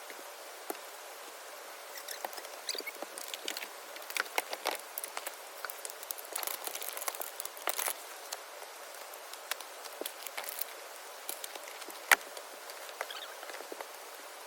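Irregular light clicks, taps and rustles, busiest in the first half, with one sharper click near the end, over a faint steady hiss.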